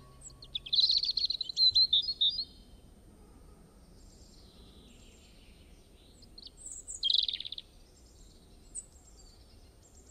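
Small songbird singing: a burst of rapid high twittering trills about a second in and another around seven seconds, with fainter chirps between.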